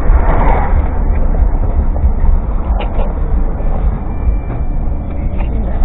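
Road noise heard inside a moving car: a steady low rumble of tyres and engine.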